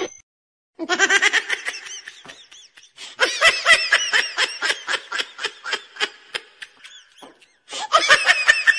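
High-pitched laughter in a long run of quick, rapid bursts, a brief pause, then another burst of laughing near the end.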